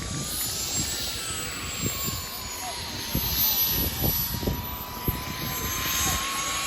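Gas turbine engine of a radio-controlled model jet whining in flight, its pitch rising about a second in and then easing back down.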